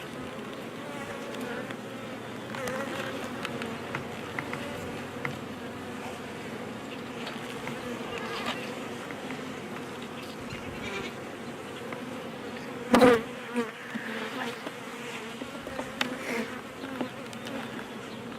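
Honey bees buzzing in a steady, wavering hum around an open hive box during a hive inspection. A single sharp knock about thirteen seconds in.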